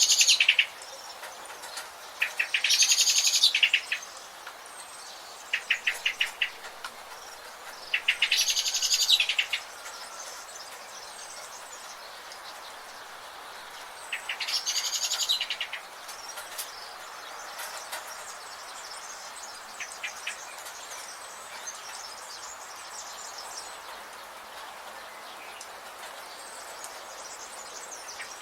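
Birds singing in a forest chorus: a loud, fast-trilled song phrase about a second and a half long repeats four times in the first half. Shorter stuttering calls and faint chirps sit over a steady background hiss, and the second half holds only the fainter calls.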